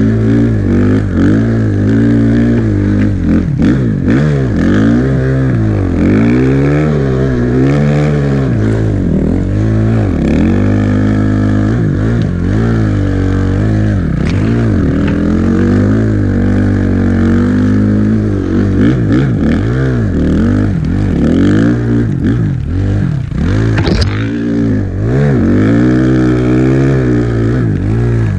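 Suzuki RM-Z450 dirt bike's 450 cc single-cylinder four-stroke engine running, its revs rising and falling again and again. One brief sharp noise comes near the end.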